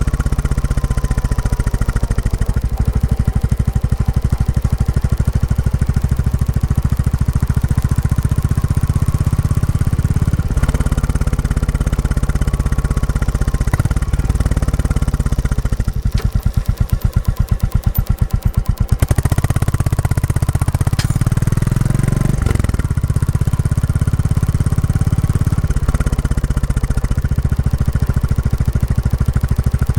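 Royal Enfield Classic 350 single-cylinder engine through its stock exhaust, thumping steadily while ridden during break-in. The beat eases to slower, more separate thumps for a few seconds midway and shifts pitch a few more times as the throttle changes.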